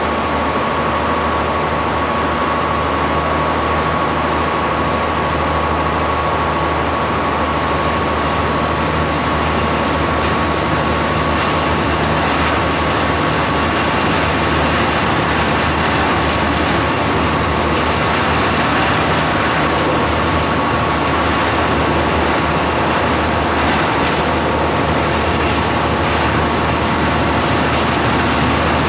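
Electric commuter train running through an underground tunnel and station, heard from the cab: a steady rumble and wheel-on-rail noise, with a steady high whine that fades after about ten seconds.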